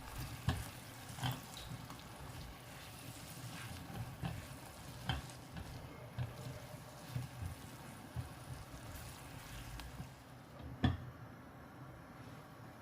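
Food sizzling in a frying pan while being stirred, with a utensil knocking against the pan every so often, the loudest knock near the end.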